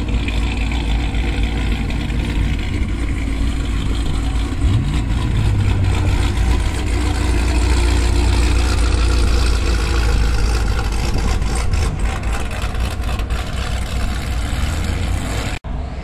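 A car engine revving hard as a car pulls away: a loud low drone that climbs in pitch about five seconds in and holds loud for several seconds, then a run of sharp crackles before it cuts off suddenly near the end.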